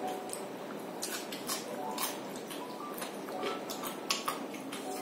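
Close-up eating sounds of chewing, lip-smacking and wet mouth clicks from people eating rice and chicken curry by hand, coming as irregular short clicks several times a second.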